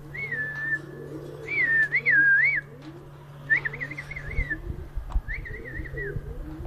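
Ringneck parrot (rose-ringed parakeet) whistling four short phrases of wavering, warbling notes. Lower repeated gliding calls run behind it.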